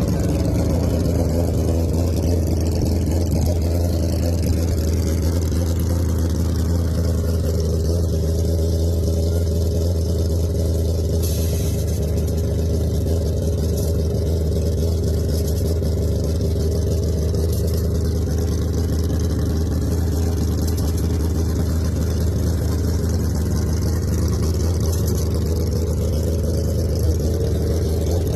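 Superbike engine idling steadily.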